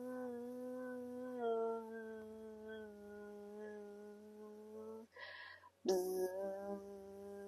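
A person imitating a bee's buzz with the voice: one long steady hum that dips slightly in pitch about a second and a half in. It stops about five seconds in for a quick breath, then starts again with a louder onset.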